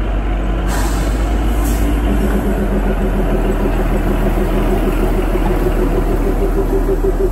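Kalka–Shimla narrow-gauge train pulling away, its locomotive engine running with a steady rumble. There is a short hiss about a second in, and from about two seconds in a pitched, throbbing drone builds.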